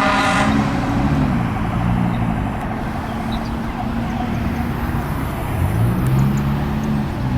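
A fire apparatus air horn cuts off about half a second in. It gives way to the truck's engine running, with a low tone that slides down and later back up.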